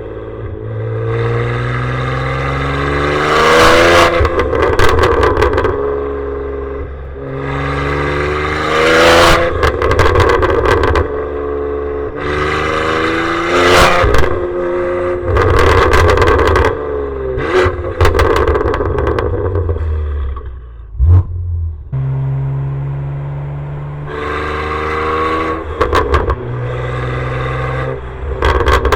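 BMW G87 M2's twin-turbo inline-six (S58) with its exhaust valves open, pulling hard through the gears of the six-speed manual: the pitch climbs for a few seconds, drops at each shift and climbs again, about six times. Very loud, with harsh distortion from the microphone clipping at the loudest points.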